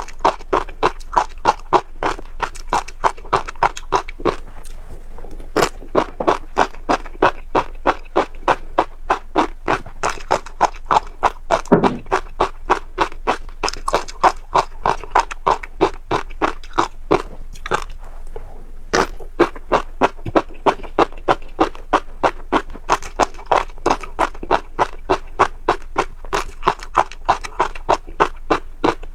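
Close-up mouth sounds of someone chewing crunchy seeds, crisp crunches at a steady pace of about three a second, breaking off briefly twice.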